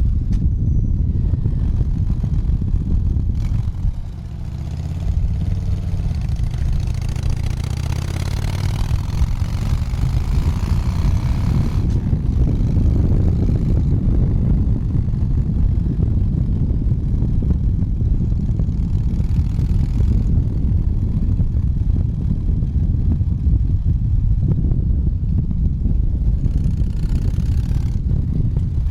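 Motorcycle engine running on the highway under a heavy, steady rumble of wind and road noise. About four seconds in the level dips briefly, then the engine pitch climbs over several seconds as it picks up speed, and it settles into a steady cruise.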